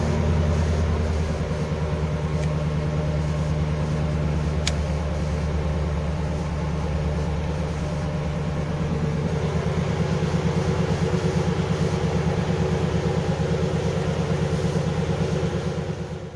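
Chevrolet Caprice's 305 V8 idling steadily through a Flowmaster exhaust after a cold start, with an even throb that becomes more pronounced about halfway through. The sound cuts off suddenly at the end.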